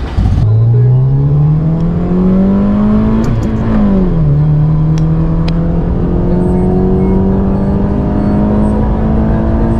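Eighth-generation Honda Civic with a loud fitted exhaust accelerating, heard from inside the cabin: the engine note climbs, drops at an upshift about three and a half seconds in, then climbs slowly again.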